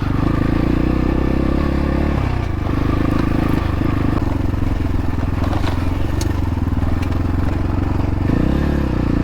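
XPro Templar X dirt bike engine running under way, its note dropping about two seconds in and changing again near the end, with a few short clicks of stones against the bike.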